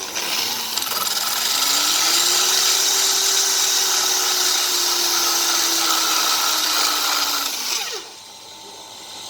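Small hand-held electric power tool running: its motor whine rises as it spins up over the first second or so, holds steady with a loud hiss, then winds down and stops about eight seconds in.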